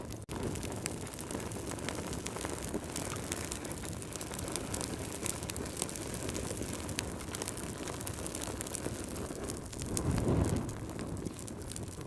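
Wood fire crackling, with many small pops and snaps over a low rumble of flames; the rumble swells about ten seconds in.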